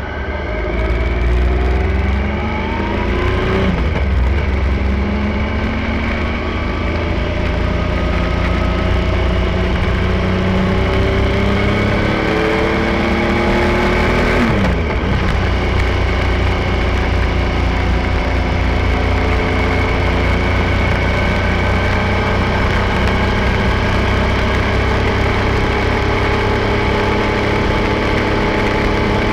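Triumph Tiger 1050 motorcycle engine running under way, its pitch climbing as it pulls, with gear changes about four seconds in and again midway. A heavy low rumble of wind runs underneath.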